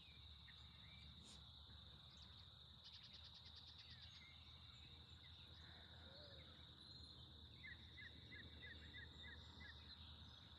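Faint outdoor ambience: a steady high insect drone throughout, with a bird giving a run of six quick chirps about eight seconds in.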